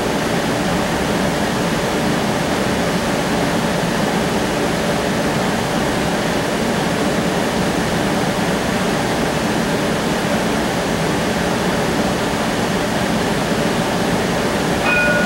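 Cabin noise of the Cincinnati Bell Connector streetcar running between stops: a steady rushing hum. A brief high-pitched tone sounds near the end.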